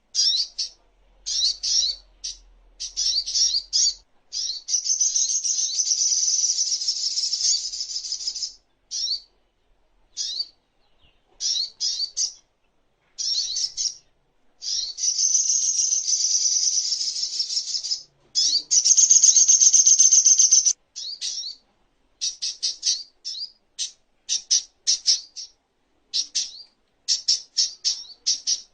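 Songon (sogok ontong) sunbird singing: quick high chirps and rising notes, broken by long, dense, rapid trills. The loudest trill comes about two-thirds of the way through.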